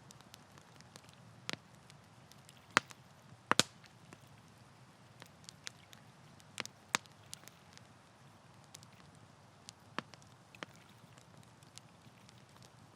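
Wood campfire crackling: irregular sharp pops and snaps over a low steady hiss. Two loud pops come about three seconds in.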